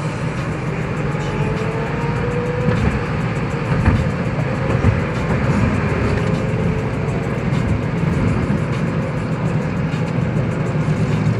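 Steady road and engine noise heard from inside a car at highway speed, with faint engine notes of nearby motorcycles that slowly rise and fall in pitch.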